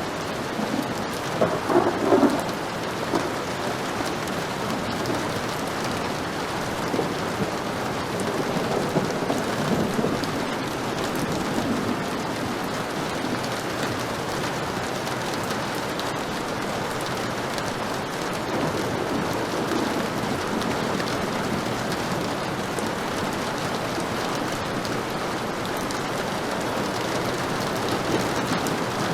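Heavy rain falling steadily, with rolls of thunder: a loud one about two seconds in, another around nine seconds in, and a fainter rumble near the twentieth second.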